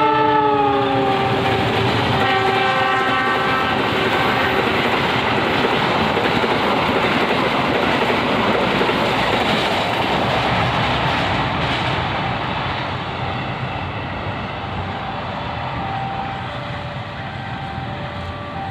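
Argo Parahyangan passenger train passing: the locomotive's horn slides down in pitch as it goes by, a second shorter horn blast follows a couple of seconds in, then the carriages rush past with wheels clacking over the rail joints, the noise slowly fading.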